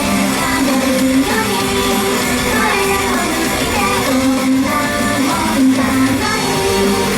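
Idol pop-rock song played live over a PA: a group of girls singing the melody over a backing track with electric guitar and drums.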